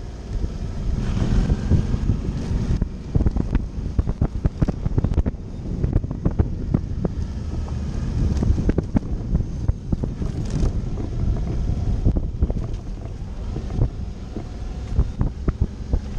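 Suzuki V-Strom motorcycle riding a dirt trail: engine running with wind buffeting the microphone, and frequent short knocks and rattles from the bumpy surface.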